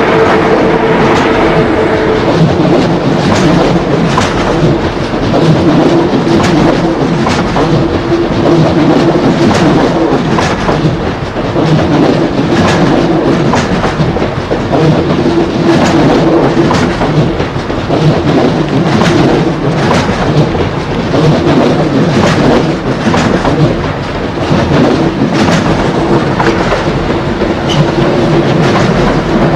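ICE high-speed train's passenger cars rolling past close by: a steady loud rumble and hum, with the wheels clicking over rail joints and points about once or twice a second. A higher whine fades out about two seconds in.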